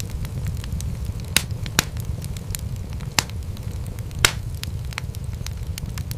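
Wood fire crackling in a fireplace: a steady low rumble of flames under a constant scatter of small sharp crackles, with four louder pops in the first two-thirds.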